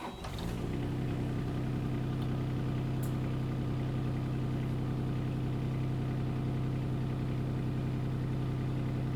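Kubota U27-4 mini digger's diesel engine starting and settling within about half a second into a steady, even running note.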